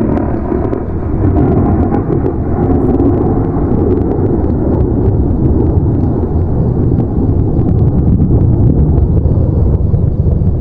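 Loud, steady low rumble of storm wind buffeting the microphone, with scattered crackles.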